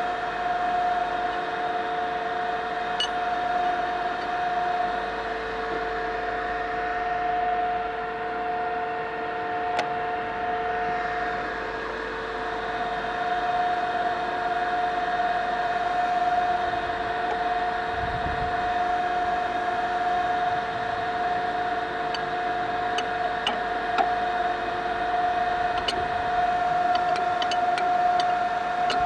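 An Okamoto machine tool running steadily under power, a constant hum with two steady tones over a hiss, and a few light ticks near the end.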